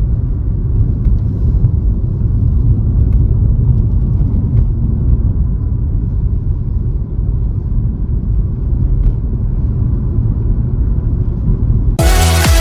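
Steady low rumble of road and engine noise inside a moving car. Electronic dance music comes in near the end.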